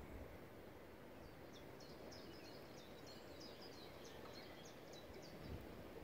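Faint steady outdoor background noise, with a bird singing a quick run of short, high chirps, about four a second, starting about a second and a half in and stopping shortly before the end.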